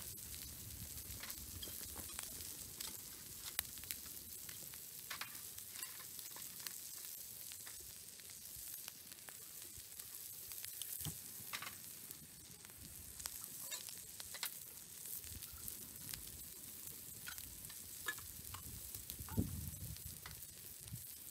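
Fried eggs, sliced onions and bacon sizzling on a flat steel griddle: a steady frying hiss with scattered small pops.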